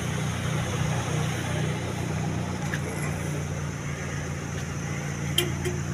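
Steady low hum of an idling vehicle engine, with one sharp click near the end.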